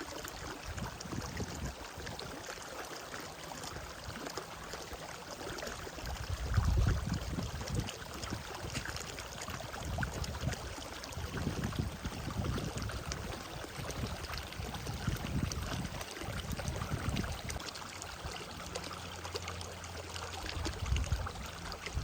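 Outdoor ambience of flowing water with a steady hiss, overlaid by low rumbling surges every few seconds.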